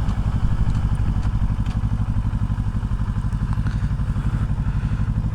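Kawasaki Ninja 650's parallel-twin engine running steadily through a full Akrapovic exhaust system, with an even, pulsing beat and no change in revs.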